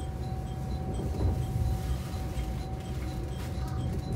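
Aizu Railway diesel sightseeing train running, with a continuous low rumble and a faint steady whine. Faint high pips repeat a couple of times a second.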